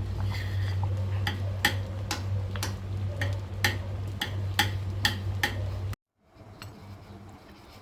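Sharp clicks, about two a second, over a steady low hum; the sound cuts off abruptly about six seconds in, leaving fainter room sound with a few light clicks.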